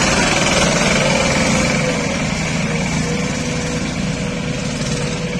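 Engine of a small vehicle hauling firewood, running steadily under load and getting slowly quieter as it moves off.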